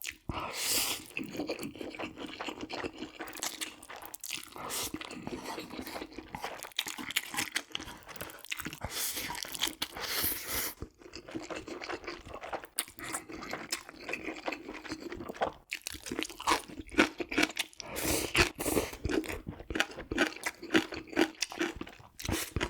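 Close-miked eating: food being bitten, crunched and chewed in a steady run of mouth sounds.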